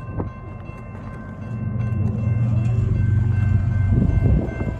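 Diesel freight locomotive running hard under throttle while pulling up a steep grade: a heavy low engine rumble that grows louder about a second and a half in as the train nears.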